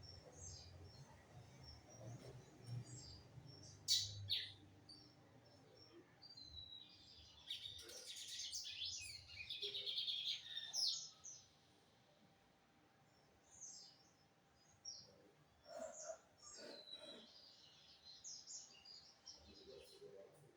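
Lined seedeater (bigodinho) singing: sharp high chips, then a fast twittering song phrase lasting a few seconds, followed by scattered short calls.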